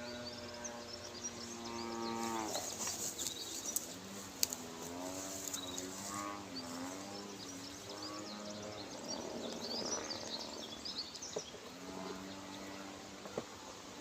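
Cattle mooing: three long, drawn-out moos, the first falling away about two and a half seconds in and the second wavering in pitch, with small birds chirping faintly.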